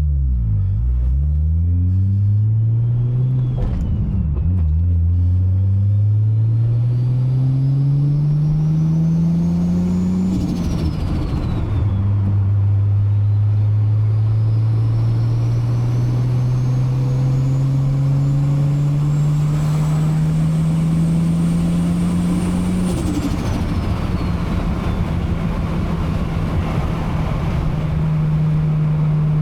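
Big-turbo Toyota 2JZ-GTE straight-six in an MK4 Supra pulling through the gears: the engine note climbs with a high turbo whistle rising alongside it. Both drop about ten seconds in as it shifts, climb again more slowly, fall once more a little past twenty seconds when the throttle comes off, and the engine then holds a steady cruise.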